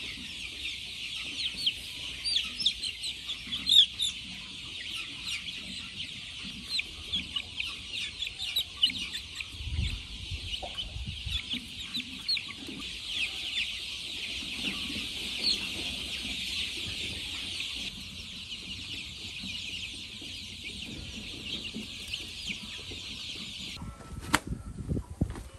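A dense, continuous chatter of many birds chirping at once. It cuts off abruptly near the end, followed by a couple of sharp clicks.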